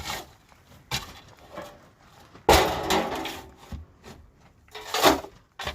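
Four sharp wooden knocks and cracks. The loudest comes about two and a half seconds in, with a short rough crackle after it.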